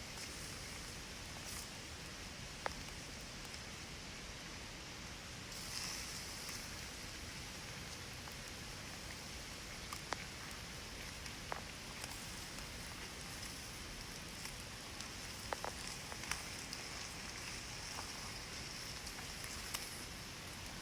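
A steady rushing hiss, like running water, with a few sharp pops scattered through it.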